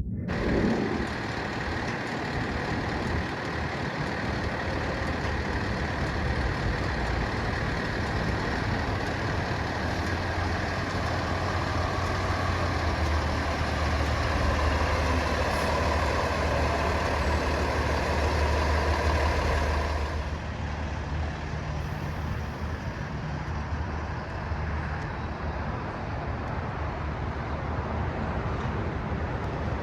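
Kenworth T370 truck's 8.9 L Paccar PX-9 diesel engine running steadily with a deep drone that grows stronger about twelve seconds in. About twenty seconds in, the higher part of the sound drops away and it gets a little quieter.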